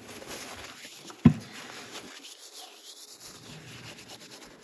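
Rubbing, scraping hand work on a small-engine flywheel while its threaded puller hole is cleaned out, with one sharp knock a little over a second in.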